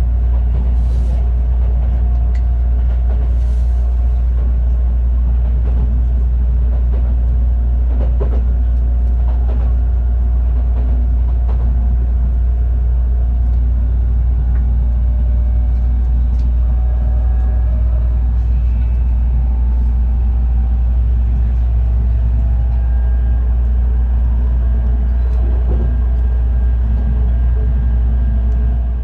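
Steady low rumble of an Odakyu Romancecar express train running, heard from inside the passenger cabin; it fades out at the very end.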